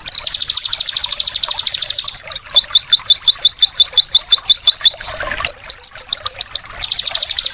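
White-eye (pleci) song: long, fast trills of high, downward-sweeping notes, about ten a second, in several phrases that change pattern, with a short rush of noise about five seconds in.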